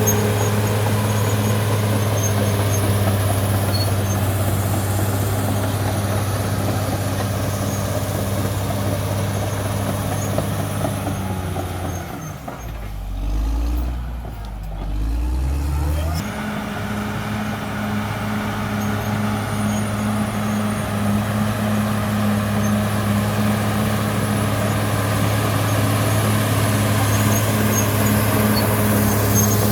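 CAT D6R XL bulldozer's diesel engine running steadily under load. About twelve seconds in, the engine drops to a lower note for roughly four seconds, then comes back up to its working speed.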